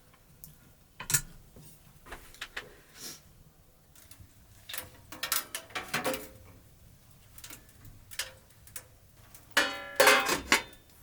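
Irregular clicks and knocks of small objects being handled, with a louder cluster of knocks and a brief squeak about ten seconds in.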